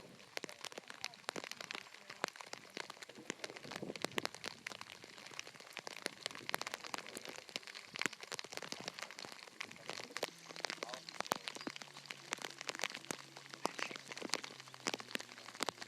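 Rain falling on a plastic raincoat close to the microphone: a dense, irregular patter of small taps with some plastic crinkling. A faint low hum comes in about ten seconds in.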